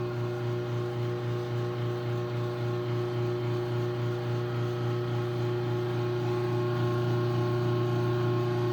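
Craftsman garage door opener's motor running steadily through its closing cycle, a constant low hum that cuts off abruptly near the end as the opener stops.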